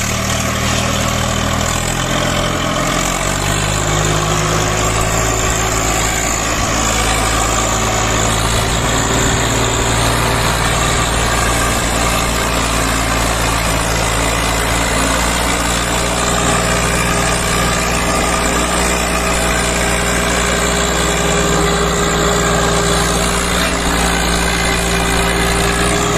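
Swaraj 855 FE tractor's three-cylinder diesel engine running steadily, its pitch rising slightly a few seconds in and then holding.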